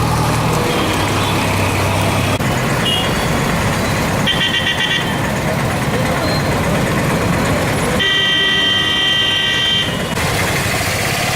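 Road traffic with vehicle horns honking: a short honk about four seconds in and a longer honk of about two seconds near eight seconds in, over a steady wash of traffic noise.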